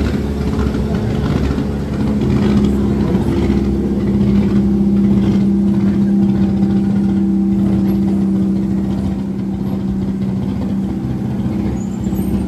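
A car engine running at steady revs, a loud even hum that holds one pitch and dips slightly about nine seconds in.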